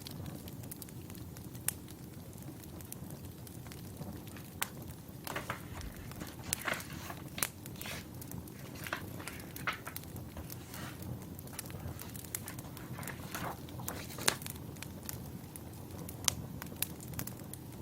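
Wood fire burning, with irregular sharp crackles and pops of the logs over a steady low rumble of the flames.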